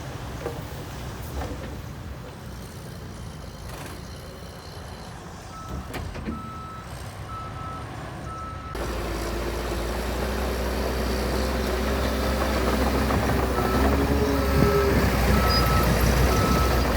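Diesel engines of heavy earthmoving machines running, with a reversing alarm beeping at a steady even pace in two stretches, around the middle and again near the end. A little past halfway the engine sound jumps suddenly louder and rises in pitch.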